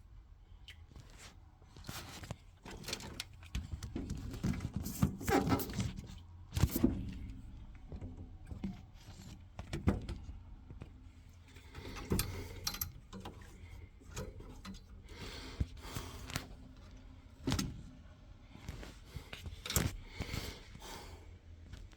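Irregular clicks, clinks and knocks of metal pipe fittings and hand tools being handled as pipework is refitted to a boiler's hydraulic block.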